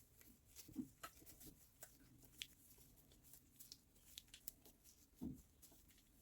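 Near silence with faint scattered clicks and light taps, the kind of small handling noise of objects being moved on a bench; no motor running.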